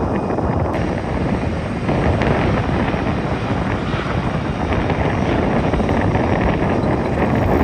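Jet airliner landing, its engines and airflow making a loud, steady rumbling rush.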